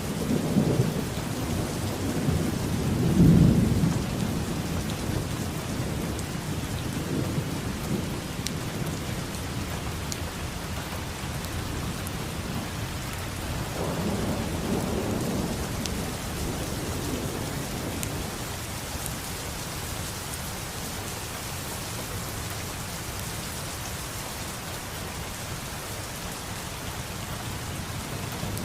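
Steady rain falling, with rolls of thunder: a loud low rumble about three seconds in and a softer one around halfway through.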